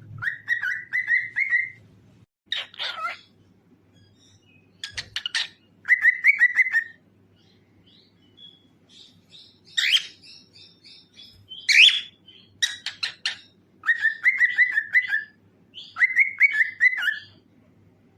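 Cockatiel singing: short warbled phrases of about a second each, repeated with pauses between them. Two sharper, shriller calls come around ten and twelve seconds in.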